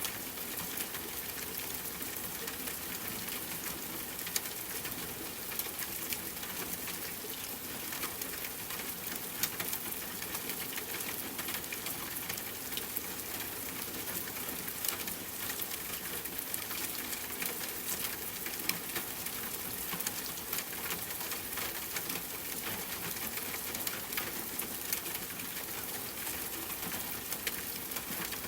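Steady rain falling, an even hiss with scattered sharp pops and ticks throughout.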